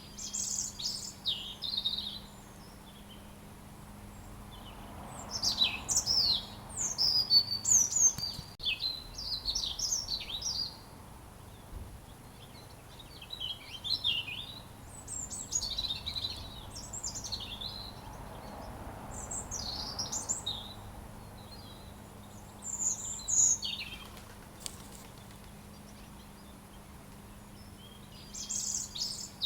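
Robin singing: a run of high, quickly varied warbling phrases, each a second or several long, separated by short pauses.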